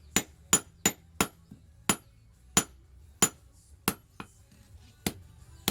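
Hand-hammer blows on spring steel on an anvil, forging a kored weeding hoe; each strike rings sharply. Four quick blows in the first second, then slower, about one every two-thirds of a second.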